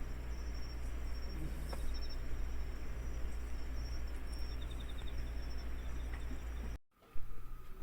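Outdoor background of a steady low hum with high insect chirping pulsing through it, broken off abruptly near the end by a cut to a different, quieter background with a steady whine.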